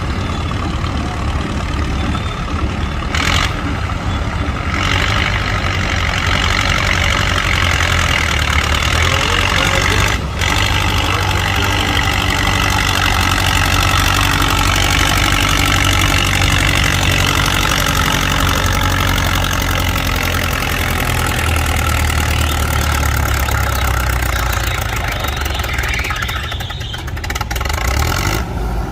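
Tractor engine running steadily, growing louder about five seconds in and easing off near the end.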